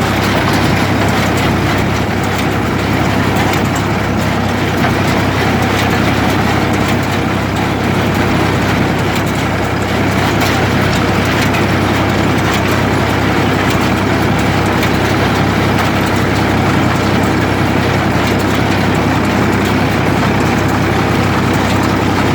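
Ford 3000 tractor's engine running steadily under load while pulling an International 37 square baler, with the baler's mechanism working along behind it.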